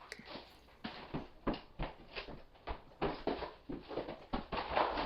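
Hardwood flooring boards being laid out and shifted into place, giving a run of irregular short wooden knocks and clatters.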